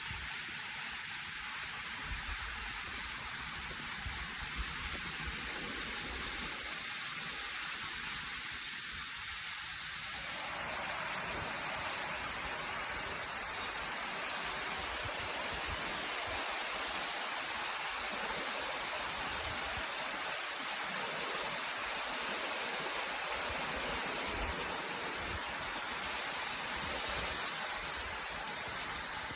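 Rushing water of a mountain stream and its waterfalls, a steady hiss that grows fuller about ten seconds in.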